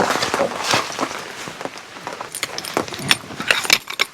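Rain falling hard, with irregular sharp taps of drops landing close by, coming thicker and brighter from about halfway through.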